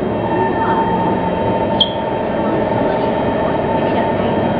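Steady running noise and hum heard from inside an MRT train car, with a short sharp click about two seconds in.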